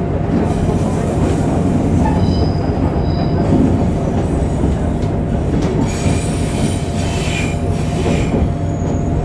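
On-board running sound of a YC1 series hybrid railcar, heard near the Hitachi VVVF-driven traction motor: a steady heavy rumble with a constant motor tone. Brief high-pitched squeals come in about two seconds in and again around six to eight seconds.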